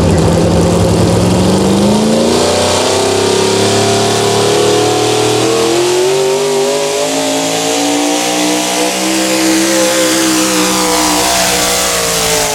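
Modified pulling truck's engine running hard at high revs through a pull, its pitch climbing steadily with a step about halfway through. Near the end the revs fall sharply as the engine lets off.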